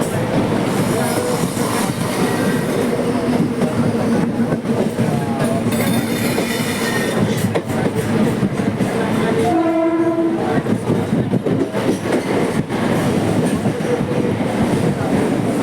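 Mumbai suburban local train running, a continuous rumble and rattle of the carriages on the track. A train horn sounds once, about ten seconds in, with a shorter high-pitched tone a few seconds before it.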